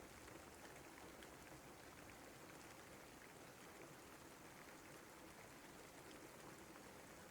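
Faint, steady rain, with many single drops ticking through the constant patter.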